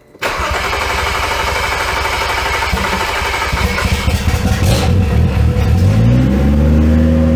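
BMW N55 turbocharged inline-six in a 2011 E90 335xi being cranked on the starter for about three seconds, then catching and firing on its first start after a rebuild. Its revs flare up and come back down toward idle near the end, running smooth.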